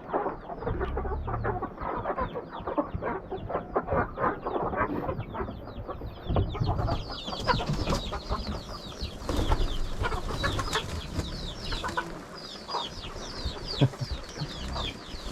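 A flock of domestic fowl calling in a shelter: many short, high, falling calls overlapping one another, growing busier about halfway through.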